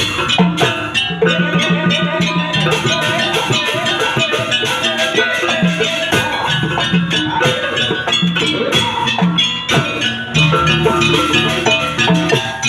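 Live Javanese campursari jaranan music: ringing struck metal gamelan-type instruments over drums, in a steady, even rhythm.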